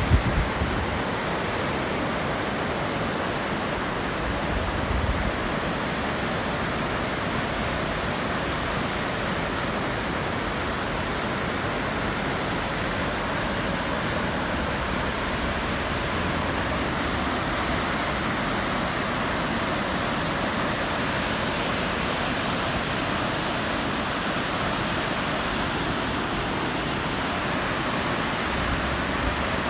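A river in flood after very heavy rain: a steady rush of fast, high water.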